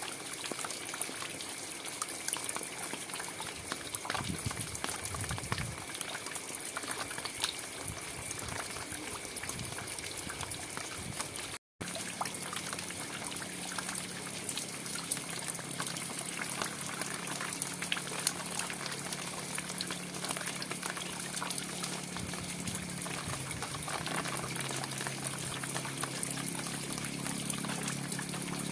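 Steady rain, a dense even hiss of falling water with the patter of many small drops. The sound cuts out for a split second about twelve seconds in, and after that a low hum lies under the rain.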